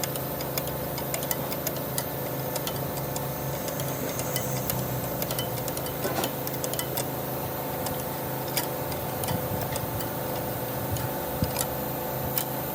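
A machine running with a steady hum, with frequent irregular ticks and clicks.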